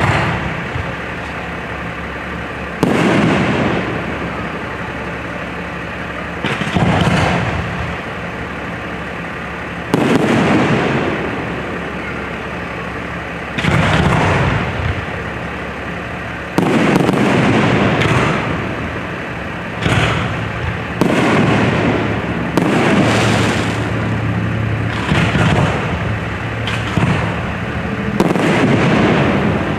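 Aerial fireworks shells bursting: sudden booms about every three to four seconds at first, then coming more quickly in the second half, each fading away over a second or so.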